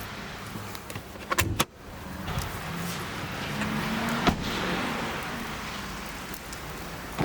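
Ford S-Max car running with a steady low hum, with a loud clatter and thump a little over a second in and a single sharp click about four seconds in.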